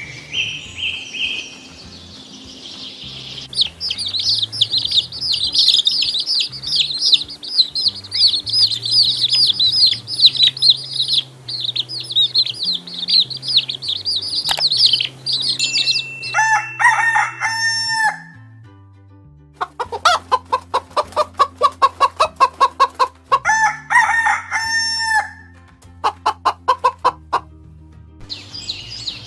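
Chickens calling: a long run of dense, rapid, high-pitched chirping, then two bouts of quick repeated clucking calls.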